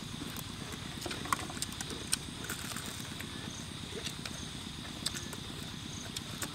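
People eating: chewing and biting crisp fried pork ribs and raw cucumber and greens, with scattered sharp crunches and mouth clicks over a steady high drone.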